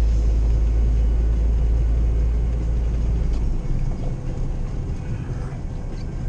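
Inside the cab of an old Jeep driving on snow: a steady low engine and road rumble that eases off about three and a half seconds in.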